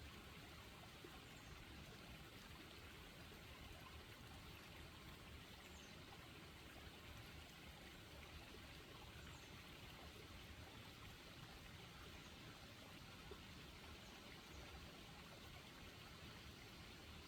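Faint, steady rush of a flowing river or stream.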